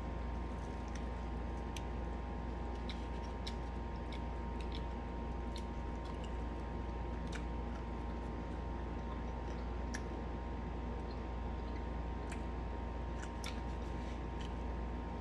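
People chewing and biting into fried chicken, with scattered short crunches and mouth clicks over a steady low hum.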